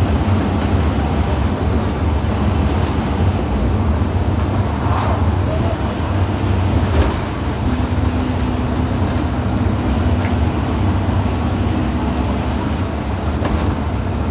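Scania N230UD OmniCity double-decker bus's five-cylinder diesel engine running as the bus drives along, a steady low drone with a few brief rattles. A steady hum joins about eight seconds in and fades out about four seconds later.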